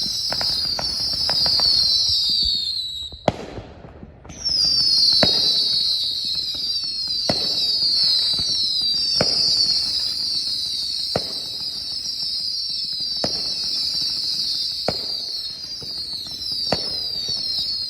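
Consumer firework cake firing single bangs about every two seconds, with a loud continuous high-pitched hiss of many falling whistles over them that breaks off briefly about three seconds in.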